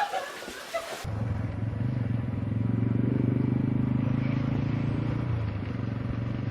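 Vehicle engine running steadily with a low, even hum, starting abruptly about a second in.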